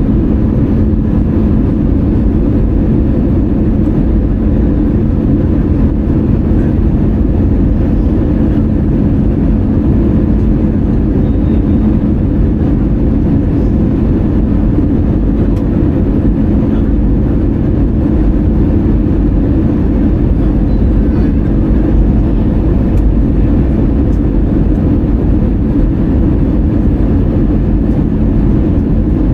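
Steady in-flight cabin noise of an Airbus A320-200 heard from a window seat: a dense rumble of the jet engines and airflow, with a steady hum underneath.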